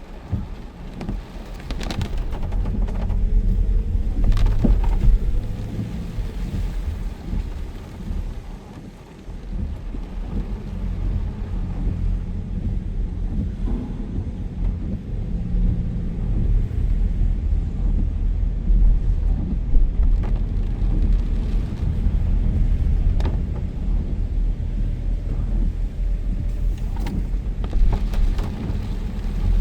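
Heavy rain in a strong wind storm, with deep rumbling wind buffeting the microphone and a few sharp knocks.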